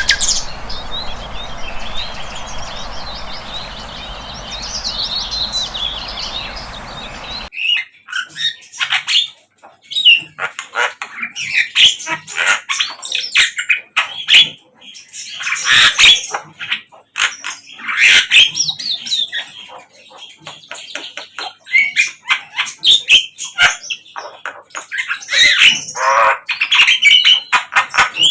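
Sikatan londo flycatcher chirping and twittering in quick, varied short phrases. For the first seven seconds or so the calls sit over a steady hiss, then the sound changes suddenly to clearer, louder chirps.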